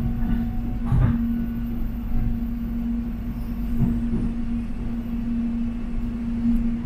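Airport rail-link electric train running: a steady low rumble under a constant motor hum, with a few knocks from the wheels about a second in and near four seconds.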